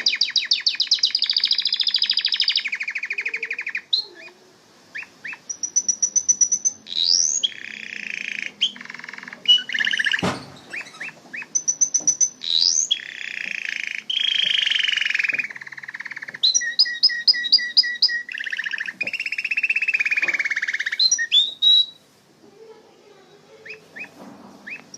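Domestic canary singing: long varied song of fast trills, rapid repeated chips and rising whistled sweeps, broken by short pauses.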